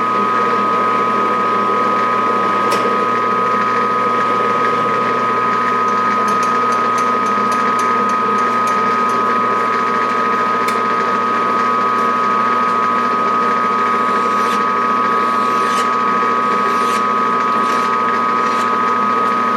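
Metal lathe running steadily with a constant gear whine while taking a light 7-thousandths cut on a steel part. A quick run of small ticks comes about six seconds in, with a few scattered clicks near the end.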